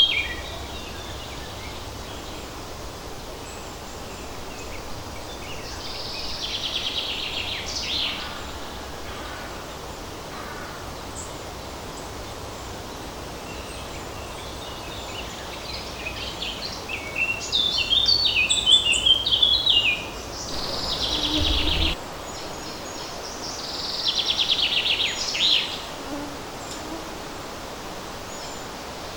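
Songbirds singing over a steady rustle of light wind in the trees: several short song phrases, some of them quick trills that fall in pitch, come and go, busiest in the second half.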